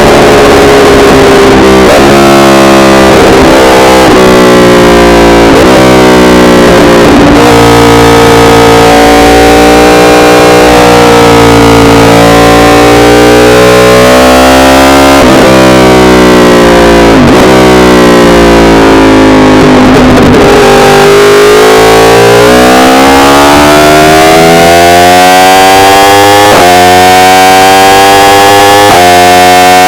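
Yamaha R1 sport bike's inline-four engine running under way, recorded so loud that it distorts. The engine note sags gradually with a few brief breaks, then rises steadily as the bike accelerates over the last third.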